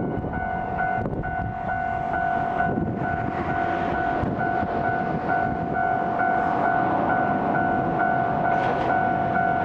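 Railway train sounds: a rumble with a steady tone and a second tone pulsing about two and a half times a second throughout.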